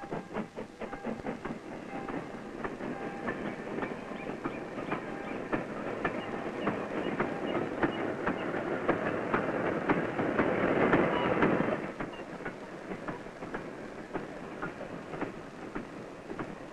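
Goods train of wagons loaded with track panels rolling past, its wheels clicking rapidly over the rail joints over a steady rumble. It grows louder as the wagons pass close, then drops suddenly to a lower, more distant clatter about twelve seconds in.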